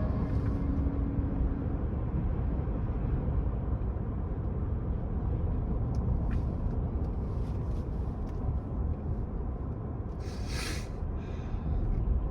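Steady low road and engine rumble inside the cabin of a moving Ford F-150 pickup, with a brief hiss about ten seconds in.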